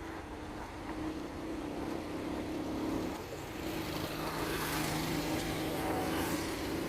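Motor vehicle engine running with a steady hum, and the tyre noise of a passing vehicle swelling in the second half.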